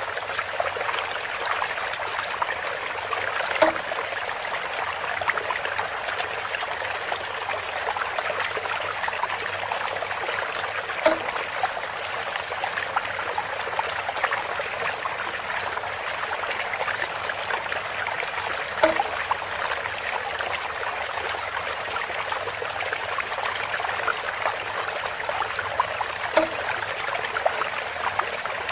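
Water trickling steadily through a bamboo spout, with a short, hollow-pitched plop about every seven and a half seconds, four times.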